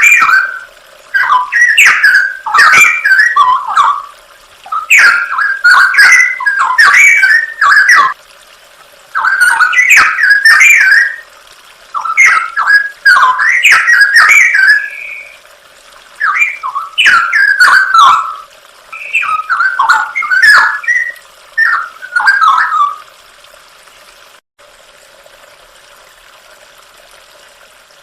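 Straw-headed bulbul (cucak rowo) singing loud, rich whistled phrases, each a second or two long with short pauses between them. The song stops about 23 seconds in, leaving a faint steady hiss.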